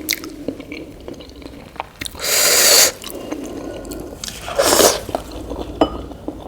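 Close-up mukbang eating sounds: soft idli and liquid sambar eaten with wet, squishing mouth noises and small clicks. Two longer, louder slurps come about two seconds in and again near five seconds.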